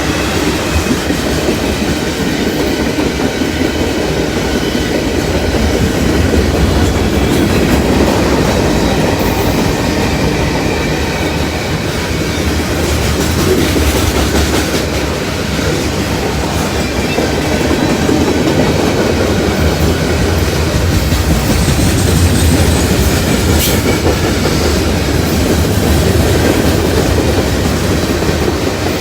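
Freight train cars rolling past close by: a steady rumble of steel wheels with clickety-clack over the rail joints and thin wheel squeal at times, and one sharp knock near the end.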